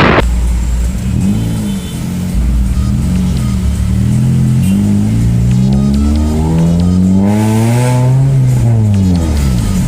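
Honda Jazz GK5's 1.5-litre four-cylinder engine revving through a newly fitted aftermarket exhaust: a few short blips, then a longer rev that climbs about six seconds in and falls away near the end. A sharp bang right at the start.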